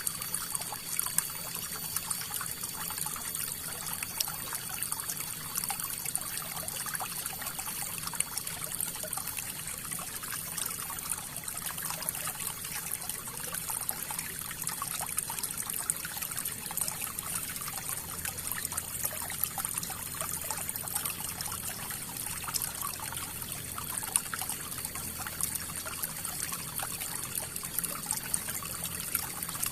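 Flowing river water: a steady rush with constant small trickling and splashing.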